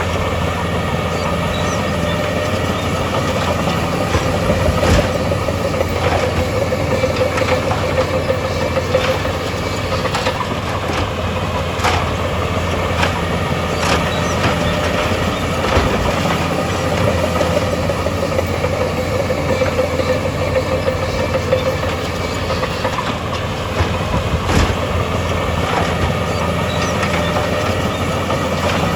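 Heavy diesel earthmoving machinery running steadily, with scattered metallic clanks and knocks.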